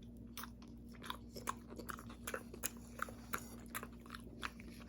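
A person chewing a bite of pizza close to the microphone: faint, irregular crunching and mouth clicks.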